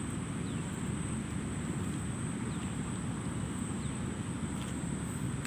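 Steady low outdoor background rumble with a thin, steady high-pitched whine above it and a few faint chirps.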